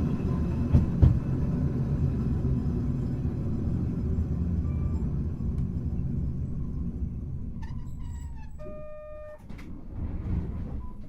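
Hankai Tramway car 351 running, heard from inside the car: a steady low rumble of wheels and running gear, with two sharp thumps about a second in. The rumble dies away as the tram slows, and near the end a brief steady tone sounds.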